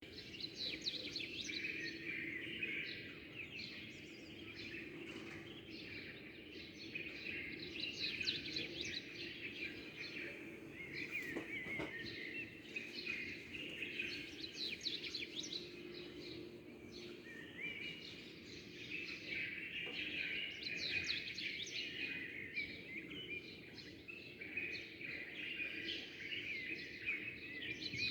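A chorus of many small birds chirping and twittering at once, a dense run of quick overlapping chirps and trills that swells and eases every few seconds, over a faint steady low hum.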